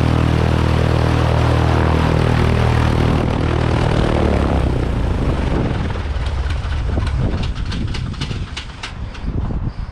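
Rockwell Commander 112A's propeller engine running steadily, then shut down about three seconds in: it winds down through a few seconds of uneven, slowing strokes as the propeller coasts to a stop, fading near the end.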